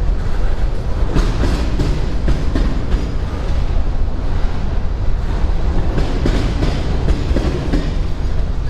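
Freight train rolling past at close range, its steel wheels clicking over the rail joints in a steady clickety-clack.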